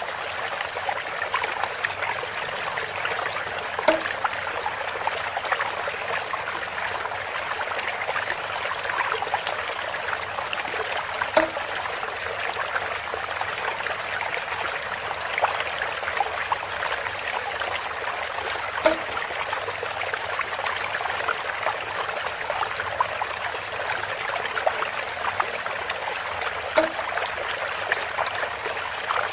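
Water running steadily from a bamboo spout, a constant trickling stream, with a brief louder plink about every seven or eight seconds.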